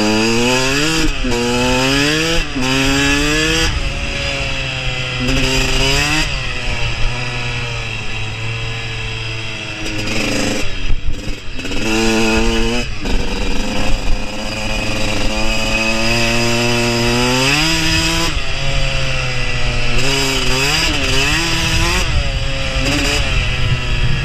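KTM dirt bike engine revving hard, its pitch climbing and dropping back several times in quick succession as it shifts through the gears. About halfway the note breaks up briefly as the throttle comes off, then it climbs in one long pull before dropping again.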